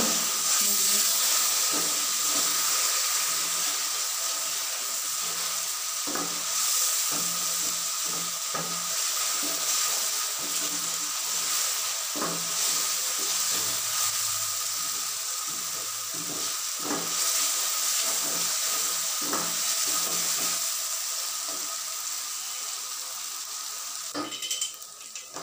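Onion-tomato masala sizzling in oil in a pot with a steady hiss, stirred with a spatula that scrapes and knocks against the pot in irregular strokes. This is the masala being fried down (bhuna) for a curry base.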